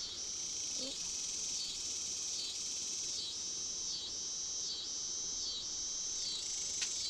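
Insect chorus: a steady high trill that dips briefly at a regular pulse, about every three-quarters of a second. A faint click near the end.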